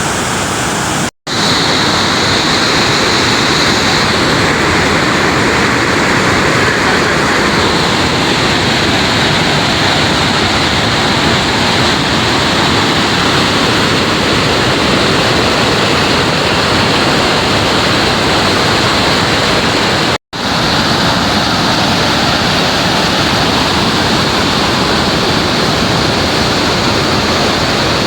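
Kpatawee Waterfall's heavy, fast water rushing over the rocks: a loud, steady roar of noise with no break in it, except that the sound drops out for an instant twice.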